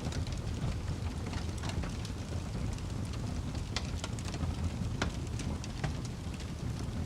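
Wood fire in a fireplace burning with a steady low rumble, sharp crackles and pops scattered irregularly through it.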